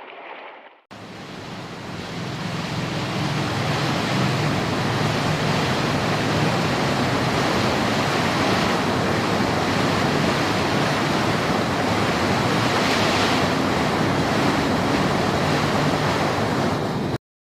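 Loud, steady rush of water, like surf or a waterfall. It comes in suddenly about a second in, builds over the next couple of seconds, and cuts off abruptly just before the end.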